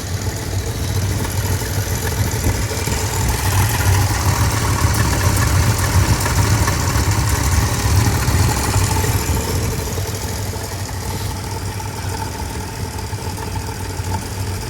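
1967 Buick Gran Sport's 400 cubic-inch V8 idling steadily, heard from the open engine bay, swelling slightly in the middle and settling back down near the end.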